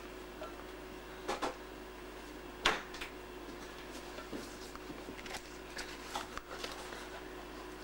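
A few light knocks and clicks of small objects being handled, a double knock a little over a second in and the loudest about a third of the way through, over a steady low hum.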